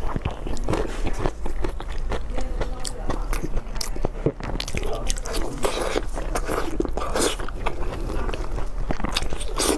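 Close-miked biting and chewing of braised pork large intestine, with many short clicks and smacks as the chewy intestine is bitten and pulled apart with gloved hands.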